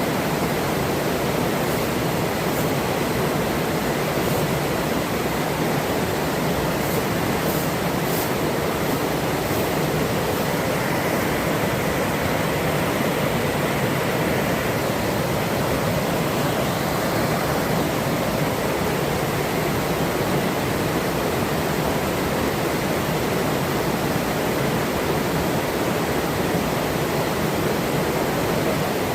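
Forest river rushing steadily over rocks, an even, unbroken sound of running water.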